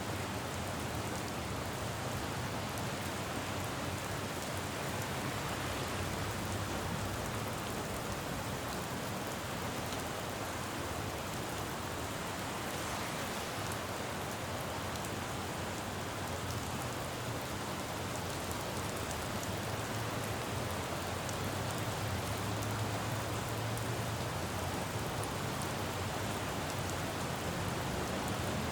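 Steady rain falling on a city road, with a low rumble of traffic on the wet street that swells about two-thirds of the way in.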